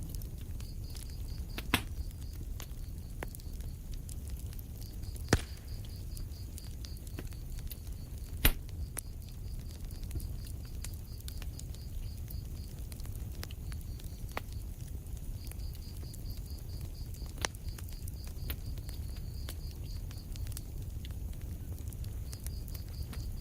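Wood fire burning in a fireplace: a steady low rumble with scattered small crackles and a few sharp, loud pops. Through it runs a faint, high, rapidly pulsing sound that comes and goes.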